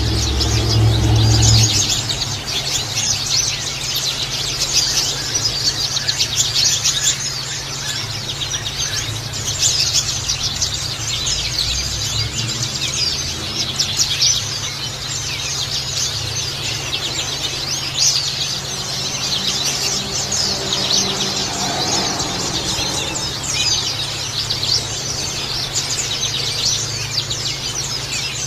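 White-eyes (pleci) twittering in a fast, continuous stream of high chirps over the trickle of running water.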